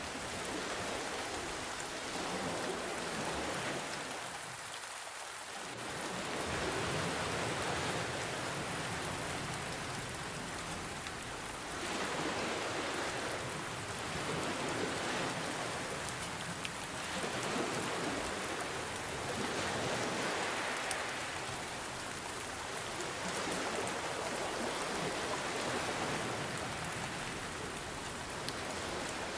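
Steady rain with ocean waves washing in, the sound swelling and easing every four or five seconds.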